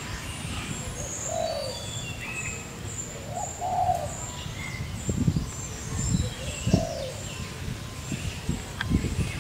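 Birds calling: short high chirps and whistles throughout, with a lower call about three times. A few low thumps come in the second half.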